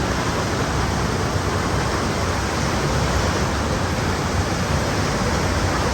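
Waterfall and strong river current: a steady, loud rush of water.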